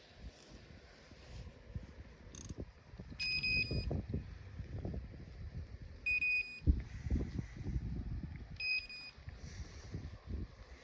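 Electronic carp bite alarm beeping three times, short tones a little under three seconds apart. Low rustling and thumps run underneath, the loudest about two thirds of the way through.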